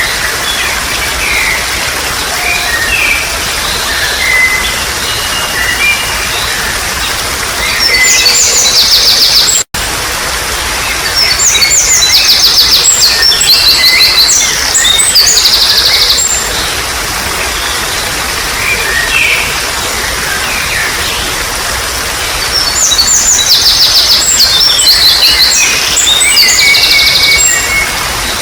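Trickling water with birds calling: scattered short chirps, and in three spells of several seconds each, loud, fast, high trilling songs. The sound cuts out for an instant about ten seconds in.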